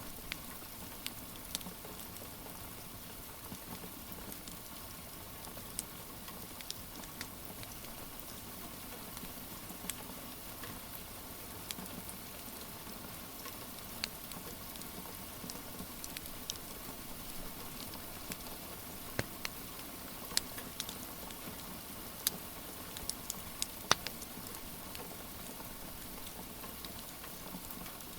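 Steady rain hiss under the irregular sharp pops and crackles of a wood fire in a fireplace, with one louder pop near the end.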